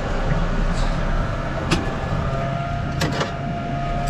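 Boat's outboard motor running steadily at low revs, with a couple of sharp knocks on the hull or gear partway through.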